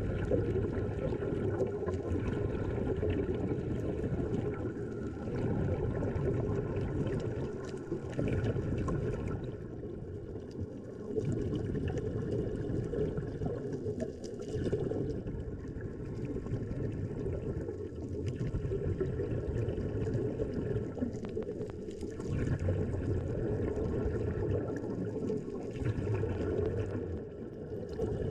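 Muffled water noise, sloshing and gurgling, that swells and eases every few seconds, with a faint steady tone under it, typical of a camera filming in or at the water over a reef.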